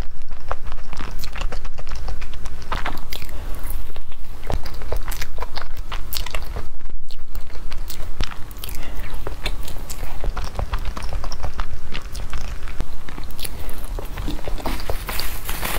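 Close-miked chewing and biting of a crumbly green pastry with a cream filling: a dense, uneven run of wet mouth clicks and soft crunches, picked up by a clip-on microphone at the collar.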